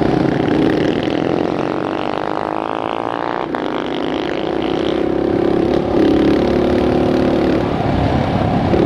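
Dirt bike engine running while riding, loud enough to drown out talk. Its note shifts up and down over the first few seconds, then holds steadier.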